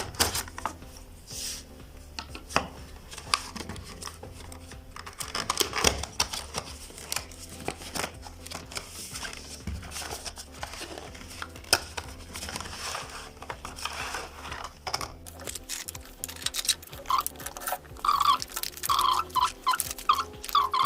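Handling noises of a cardboard box and its packaging being opened: scattered rustling, scraping, tearing and light taps, with denser clicking and crinkling near the end.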